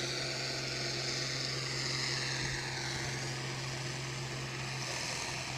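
Massey Ferguson 1135's turbocharged Perkins 354 diesel working under load while pulling the sled: a steady engine drone with a slight falling whine about halfway through.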